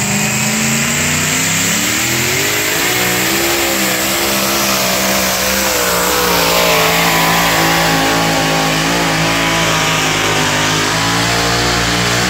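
Alcohol-fuelled pulling truck's engine running hard under load during a pull, loud and steady; its pitch climbs a couple of seconds in, then holds high and wavers as the revs rise and fall.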